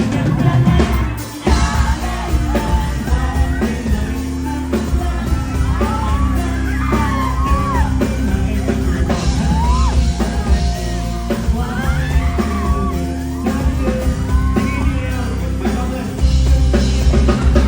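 Live pop-rock song: a singer's voice over a full band, with a brief dip in loudness about a second in.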